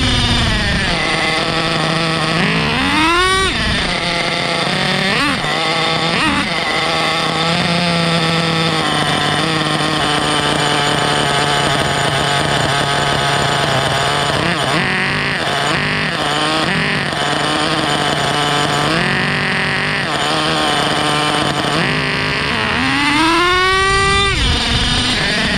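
Small nitro (glow-fuel) engine of an HPI Savage X4.6 RC monster truck running with a high-pitched drone, revving up and falling back about three seconds in and again near the end.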